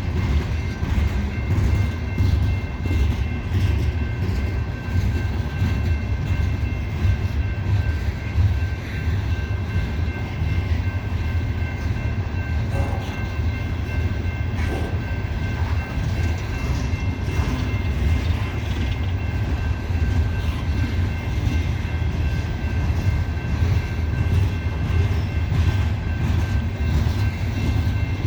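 Loaded coal hopper cars of a CSX freight rolling slowly past: a steady low rumble with faint, steady high-pitched tones above it.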